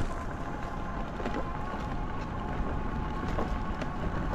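Steady rumbling noise of an e-bike being ridden on a trail: tyres on the ground and wind on the microphone, with a faint steady whine.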